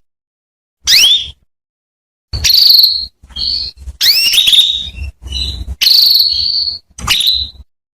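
Female canary calling: one short rising chirp about a second in, then a run of longer, wavering high calls and trills from about two seconds in, used as a lure to set a male canary singing.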